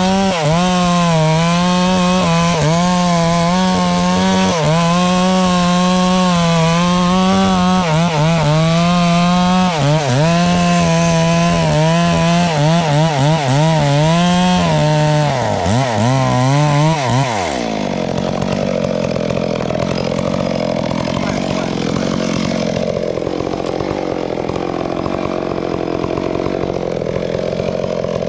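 Chainsaw running at high revs while cutting through wood, its pitch wavering and dipping as the chain loads in the cut. About two-thirds of the way in the high whine drops away suddenly, and a lower, rougher and quieter engine sound follows.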